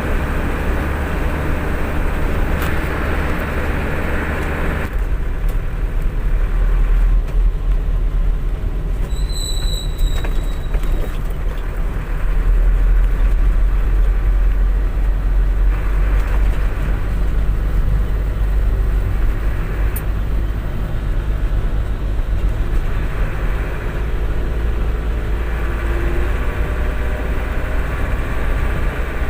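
Truck engine and road noise, a steady deep rumble. The higher rushing noise drops away suddenly about five seconds in, and a brief high beep sounds about nine seconds in.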